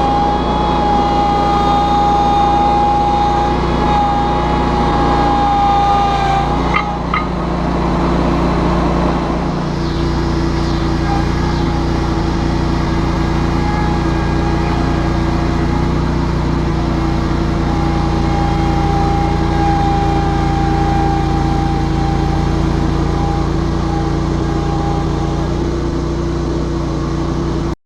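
John Deere lawn tractor engine running steadily under load while dragging a fallen tree with a front grapple, with a high whine that drops out about a quarter of the way through and returns later, and a short knock about seven seconds in.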